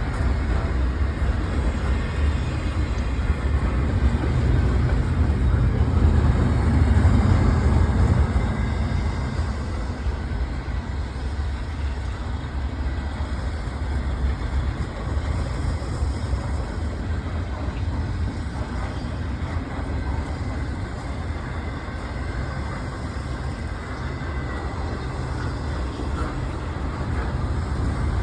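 BNSF intermodal freight train rolling past: a steady, deep rumble of wheels on rail that swells a little a few seconds in and then holds even.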